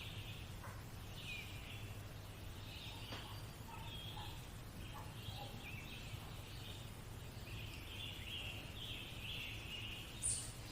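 A nature-sounds background of birds chirping and calling again and again over a faint low hum, with two brief louder sounds near the end.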